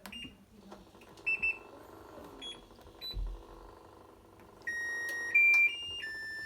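Washing machine control panel beeping: a few short beeps, then, near the end, a short electronic tune of held tones that steps up and then down in pitch, over a low steady hum.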